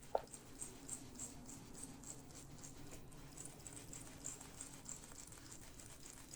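Small inked blending tool rubbed over paper in short strokes: a faint, soft scratching at about three strokes a second, after a small click near the start.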